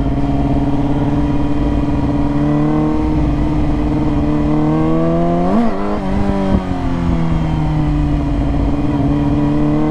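Motorcycle engine running while riding, with a quick sharp rev that rises and drops back about halfway through. The rider says the clutch is slipping.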